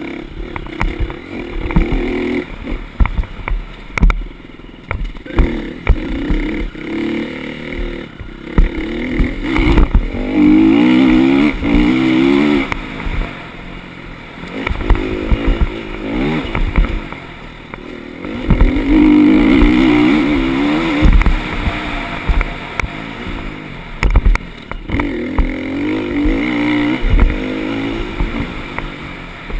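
Motocross dirt bike engine revving up and down repeatedly while being ridden round a track, with several long full-throttle pulls. Frequent short knocks run through it.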